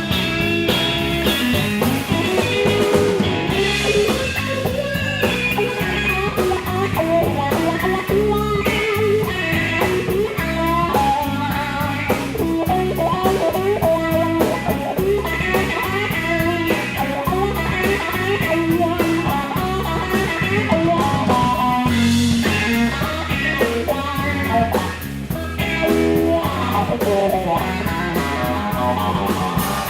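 Live blues-rock trio playing an instrumental break: electric guitar soloing over bass and drums.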